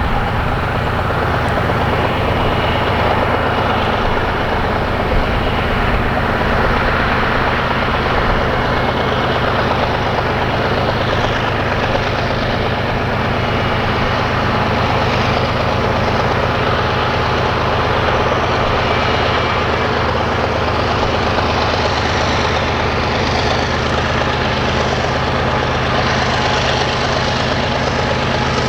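Diesel-electric locomotives of a BNSF coal train working hard up a grade: a steady, loud, low engine drone with rail and wheel noise.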